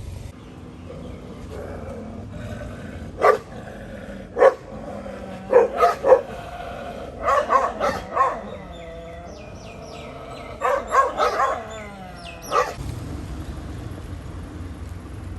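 Stray dogs barking in short bursts, single barks at first and then quick runs of several barks.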